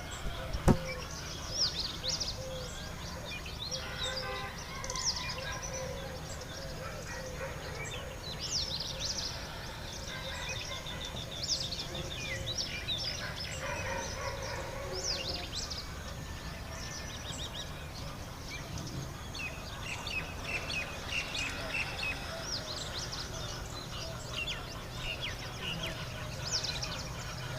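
Birds chirping: many short, high chirps and squeaks scattered throughout, with a single sharp knock less than a second in.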